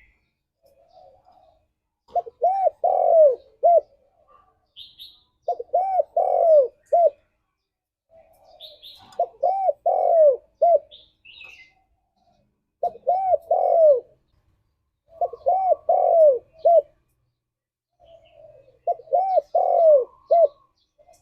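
Spotted dove (tekukur) cooing: six phrases of four or five low, arched coo notes, each phrase about a second and a half long, repeated every few seconds. Faint high chirps of a small bird come in between.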